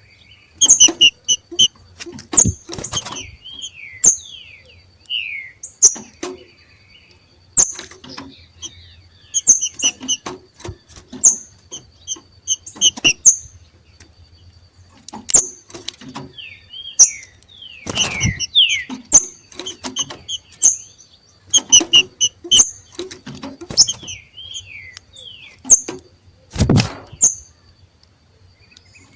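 Green-winged saltators (trinca-ferro) giving the 'macheado' breeding call: irregular bursts of short, sharp notes and quick falling whistles, mixed with loud clicks.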